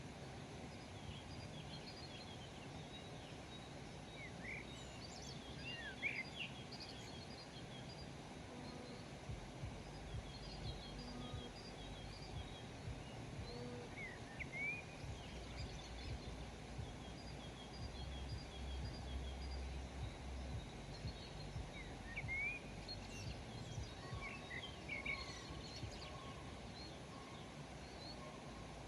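Small birds chirping and calling in short scattered notes over a faint steady background hiss and low rumble.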